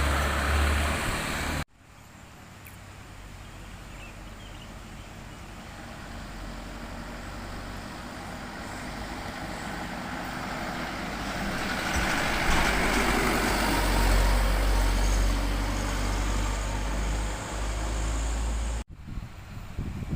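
A heavy truck approaching on the road, its engine and tyre noise growing steadily louder to a low rumble as it draws close. The sound breaks off abruptly near the start and again near the end.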